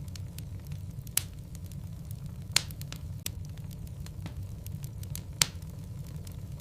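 Wood logs burning in a fireplace: a steady low rumble of flame with constant small crackles and three louder pops of the wood, about a second in, midway, and near the end.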